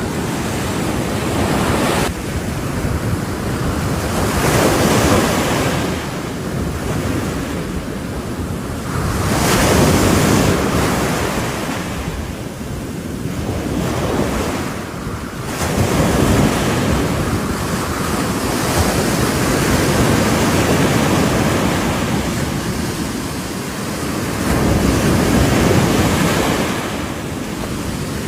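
Sea waves breaking on the shore, one after another about every five seconds, each rising to a wash of surf and then falling back.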